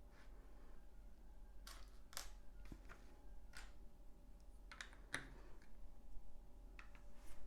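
Small plastic LEGO bricks and pieces clicking and clattering as they are handled and set in place, in scattered, irregular taps.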